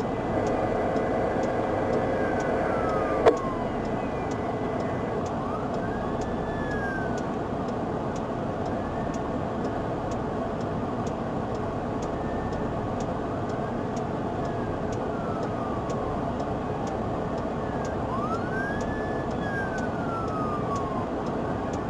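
Faint siren wailing, rising and falling every few seconds, over a steady rumble of vehicle and road noise, with a single click about three seconds in.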